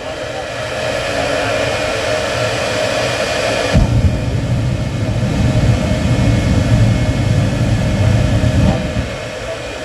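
Jet truck's jet engine running with a steady rushing whine. Its low rumble jumps up suddenly about four seconds in and eases off near the end.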